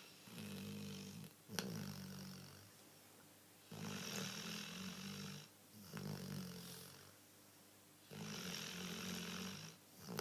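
A dog snoring, like an old man: slow breaths, each a low two-part snore, about one every four seconds. A brief sharp click comes about a second and a half in.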